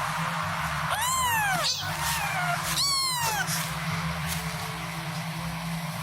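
Domestic cat meowing: two loud meows, each rising then falling in pitch, about a second and about three seconds in, with fainter, shorter calls between and after them.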